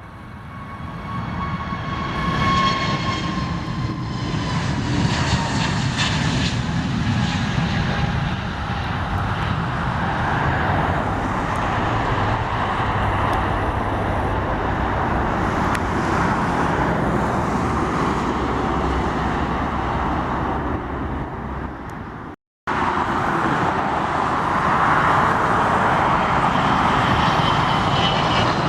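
Jet aircraft engines passing close: the noise builds over the first three seconds, with a high engine whine that slowly falls in pitch, then holds steady. About 22 seconds in it cuts out abruptly and resumes with another jet's engine noise.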